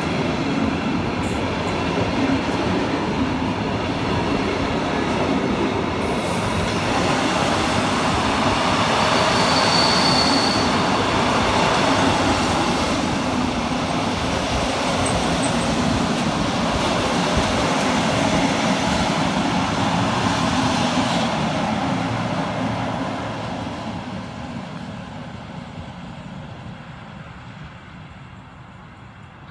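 Loaded timber wagons of a heavy freight train rolling past on the rails, a steady dense rumble of wheels and bogies, with a short high-pitched squeal about ten seconds in. From about 22 seconds on the noise fades steadily as the end of the train draws away.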